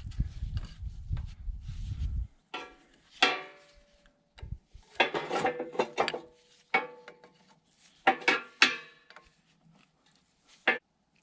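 Metal hand tools clinking and clanking against steel parts in irregular bursts, some strikes ringing briefly. A low rumble runs for the first two seconds.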